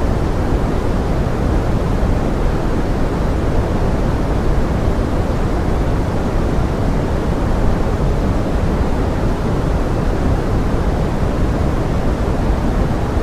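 Steady pink noise with forest rain: an even, unbroken rushing hiss, dull and deep rather than bright, with no single drops or changes standing out.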